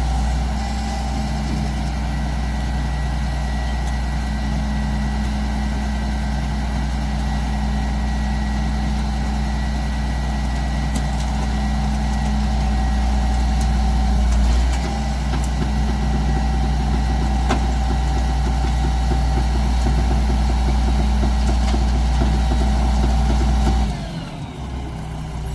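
Mack MR rear-loader garbage truck's diesel engine running steadily, with a thin whine above the engine note. About a second before the end the sound drops off suddenly and its pitch falls away.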